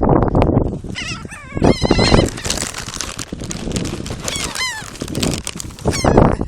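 Seagulls calling, a series of harsh cries with falling pitch, several birds together over a steady background rush.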